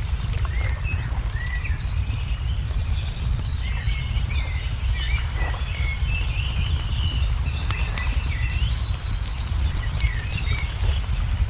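Crackling wood fire with scattered sharp pops, mixed with many small songbirds chirping in short, quick phrases, over a steady low rumble.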